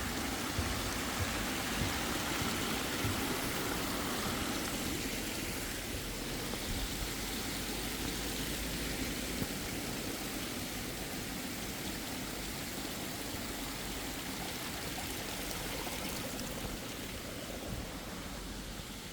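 Steady rushing of flowing stream water, easing slightly near the end.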